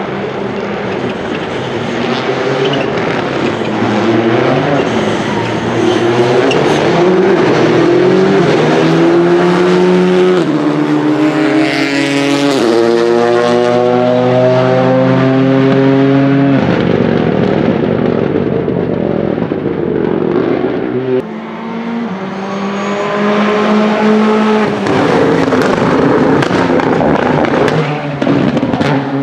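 Rally car engines revving hard and stepping up in pitch through gear changes as the cars go by. The engine note is loudest from about twelve to sixteen seconds in and cuts off sharply after that. Another car's engine builds up again near the end.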